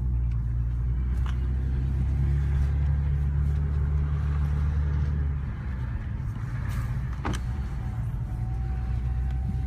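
BMW 335i's turbocharged straight-six idling steadily, sounding normal again after a restart with no misfire. It settles a little quieter about halfway through, with a couple of faint clicks.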